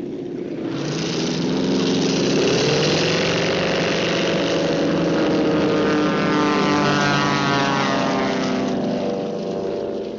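A loud engine running, with several pitched tones that rise in the first couple of seconds, hold, then slide down, as of a motor vehicle going past.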